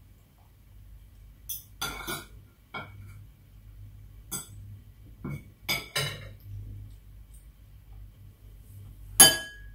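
Metal spoon and fork clinking and scraping against a plate, several sharp clicks in a row, then near the end one louder clink that rings briefly, a spoon striking a glass bowl.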